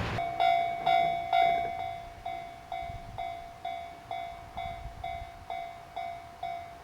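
Railway level-crossing alarm ringing in a steady rhythm, about two strikes a second, each ding fading before the next. The rumble of a passing train cuts off right at the start.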